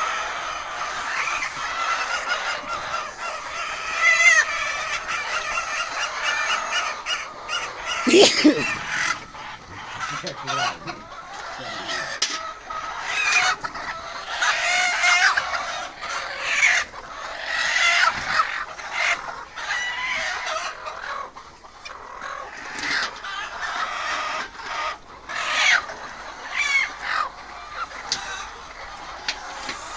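A flock of chickens clucking and squawking, many overlapping calls at once, with a louder squawk about eight seconds in.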